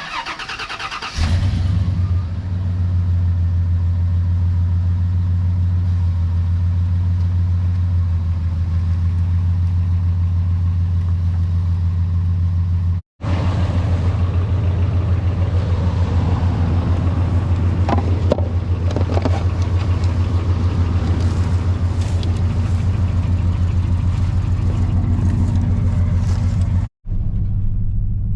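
Chevrolet Suburban engine starting with a short burst of cranking, then running steadily.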